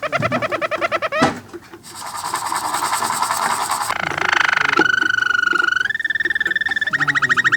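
Roller canary singing its rolled song: rapid trills, a brief break, a high rattling passage, then steady held notes that give way to a fast trill again near the end.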